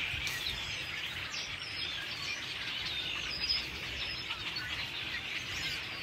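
A large flock of songbirds, hundreds strong, calling all at once: a cacophony of many overlapping short chirps and whistles with no pause. It sounds like a flock of red-winged blackbirds, though starlings that mimic other birds may be among them.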